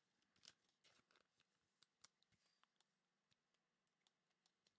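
Near silence, with a few faint, soft clicks from trading cards being handled and slid through the hand.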